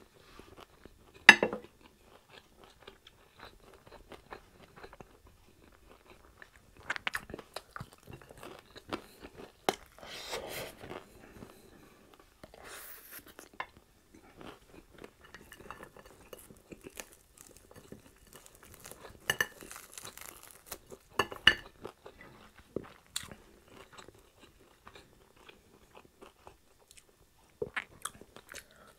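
Close-up crunching bites and chewing of crispy fried pork chop, in irregular spells of crunches, with one sharp, loud crunch about a second in.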